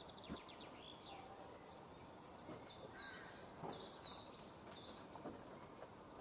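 Quiet outdoor background in which a small bird sings a quick run of six or seven repeated high notes about halfway through, with a few fainter chirps earlier and a couple of faint knocks.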